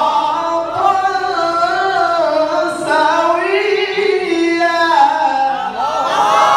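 A male qari's voice chanting a Qur'an recitation (tilawah) in one long melodic phrase, with held, ornamented notes that slide up and down.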